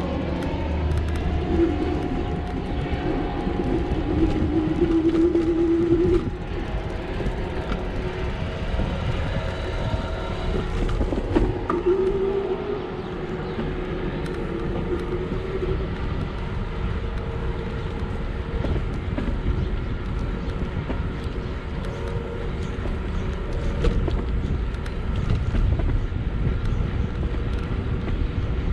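Steady wind and road rumble while riding an electric bike outdoors, with a humming tone that comes and goes twice.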